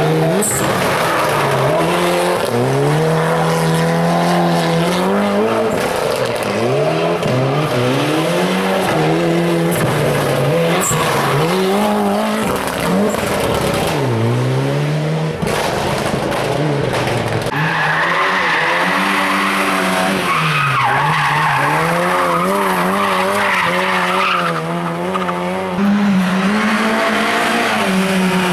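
Hill-climb race car engine at full throttle, its pitch climbing through each gear and dropping at every shift, again and again, with tyres squealing as the car slides.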